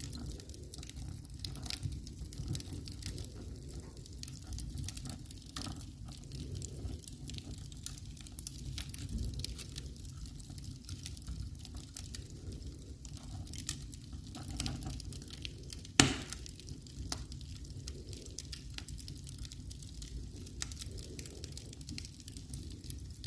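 Wood fire burning in a fireplace over a low rumble, crackling with scattered small pops and one much louder pop about two-thirds of the way through.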